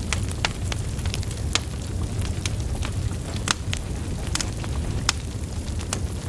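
Wood fire burning: a steady low rumble of flames with irregular sharp crackles and pops from the logs, the loudest a little past halfway through.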